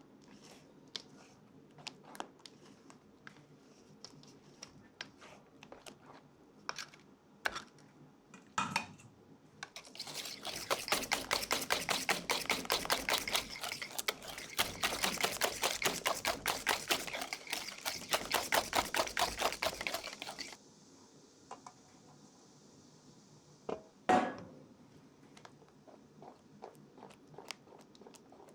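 Kitchen utensils at work: scattered light clicks and taps, then from about ten seconds in roughly ten seconds of fast, even strokes that stop suddenly. A faint hiss follows, with one sharp knock a few seconds before the end.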